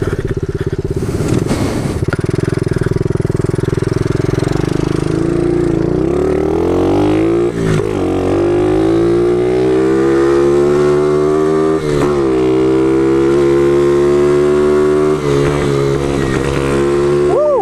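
Small pitbike engine on the move: rough and low at first, then revving up about six seconds in and holding a high, steady pitch, with two short dips in revs.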